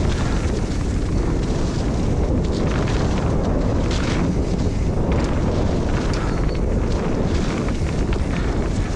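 Mountain bike riding down a muddy trail: wind rushing over the camera's microphone, with scattered knocks and rattles from the bike over rough ground.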